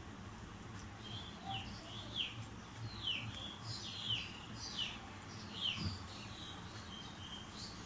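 A small bird chirping repeatedly: short, high notes that slide downward, a little over one a second.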